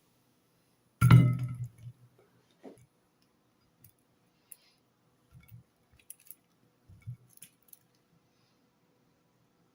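A single loud knock or clatter of hard objects about a second in, followed by a few faint scattered clicks and taps.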